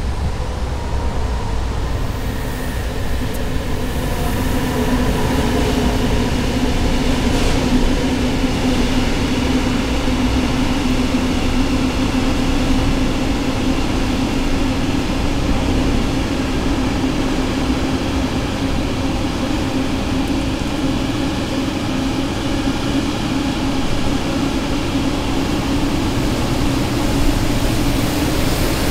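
Container freight train running past on the rails: a steady, continuous rolling noise with a steady low tone through it.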